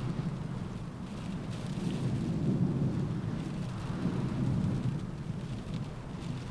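Windstorm with rain: a low rumble that swells and eases over a few seconds, with a fainter hiss of rain above it.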